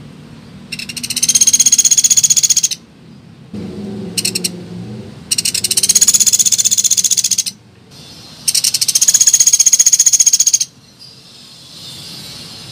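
Recorded lure call of a pelatuk beras (a small woodpecker): three long, fast, high-pitched rattling trills of about two seconds each, with a short burst between the first two.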